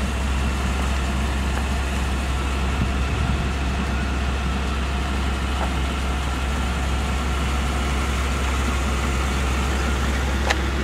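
A 5.7-litre 350 V8 with throttle body fuel injection idling with a steady, even low hum.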